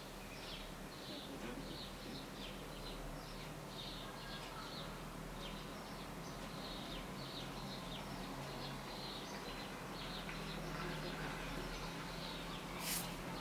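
Small birds chirping: many short, high chirps repeating throughout, over a faint steady low hum. A brief sharp click near the end.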